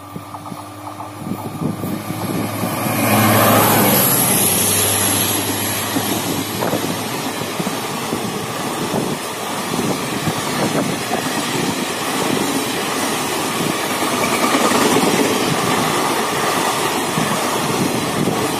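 Indian Railways passenger train passing at speed close by: the locomotive's approach builds to a peak about three to four seconds in, with a thin high whine as it goes past, then the coaches follow in a steady loud rumble with a rapid clatter of wheels over the rails.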